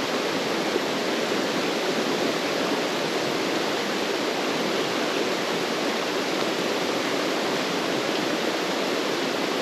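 Creek of mountain runoff water rushing, a steady, even wash of noise.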